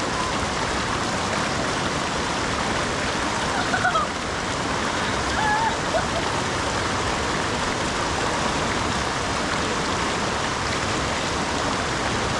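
Mountain river rushing over rocks, a steady even hiss of flowing water, with brief faint voices about four and six seconds in.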